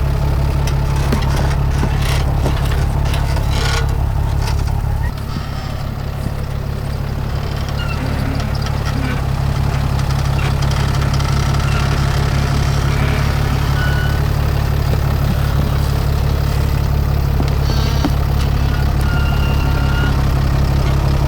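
Truck engine idling steadily, with a few sharp clicks in the first seconds; its level drops about five seconds in and slowly comes back up.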